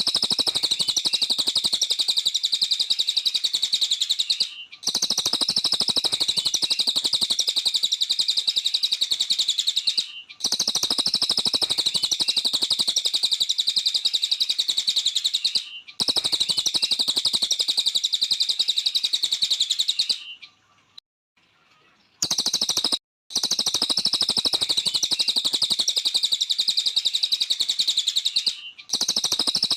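A small songbird, the 'cililin' of Indonesian bird-keeping, singing a rapid, continuous high-pitched chirping song. It comes in stretches of about five seconds, with brief breaks between them and one longer pause a little past two-thirds of the way through.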